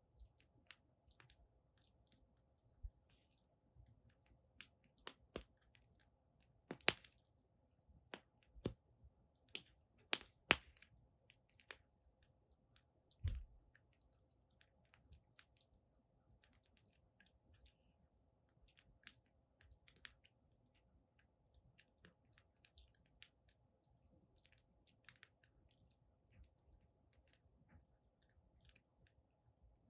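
Firewood burning in a fire pit, crackling softly with scattered sharp pops, the loudest about 7 and 10 seconds in. A dull low thump about 13 seconds in.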